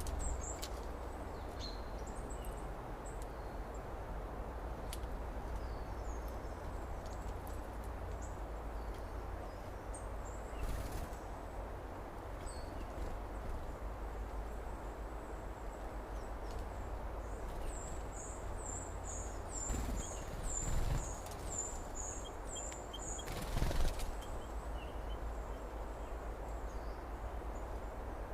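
Outdoor summer ambience: a steady low rumble and hiss with scattered high bird chirps, then a quick run of about a dozen high chirps around two-thirds of the way through, and a few soft knocks.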